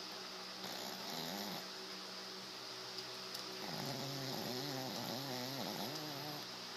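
Sleeping dog snoring, sounding like a hog: a short snore about a second in, then a longer one from about halfway whose pitch wavers up and down several times.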